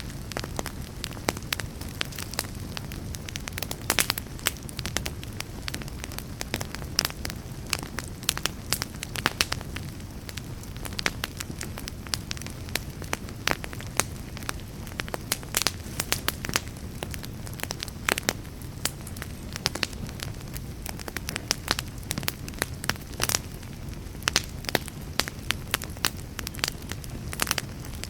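Wood fire in a fireplace crackling, with many irregular sharp pops over a steady low rumble of burning.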